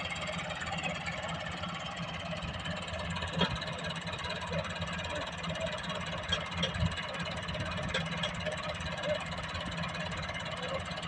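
Tractor engine running steadily, with a few short clicks a few seconds in and again later.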